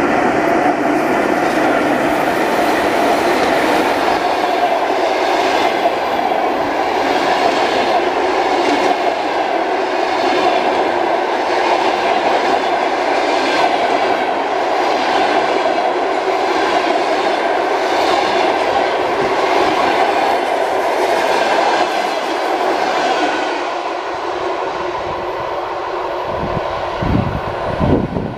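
Passenger train hauled by a ChS7 electric locomotive passing at speed, its wheels clattering in a steady rhythm over the rail joints. The noise eases off over the last few seconds as the end of the train goes by, with a few low thumps near the end.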